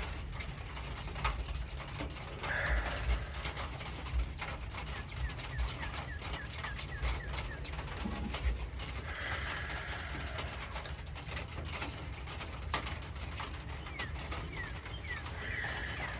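Outdoor birdsong: runs of short, falling chirps that come and go several times, over a steady low hum and scattered faint ticks.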